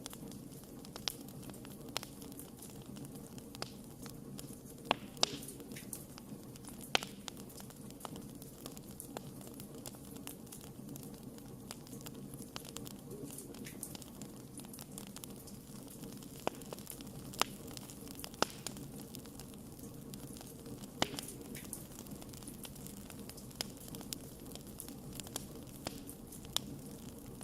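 Wood fire burning: a steady low rush of flame with irregular sharp crackles and pops, a few of them louder than the rest.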